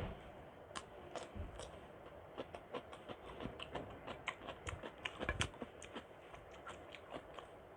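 Close-miked eating sounds: a quick, irregular run of small wet clicks and smacks from chewing a mouthful of khichuri, busiest and loudest about five seconds in.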